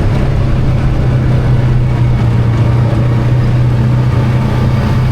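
ATV engine running at a steady speed under way, a constant low engine note over road and wind noise.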